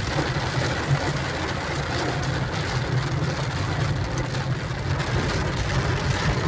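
Vehicle engine running steadily as a low hum, under a continuous hiss of rain.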